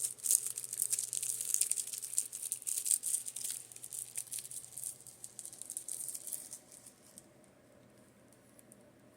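Rapid, light tapping and scratching on makeup brushes, a dense flurry of crisp ticks that stops about seven seconds in. A fan hums faintly and steadily underneath.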